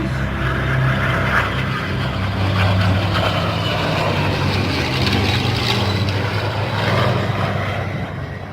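Aircraft engine drone: a loud, steady, low hum with a rushing noise over it.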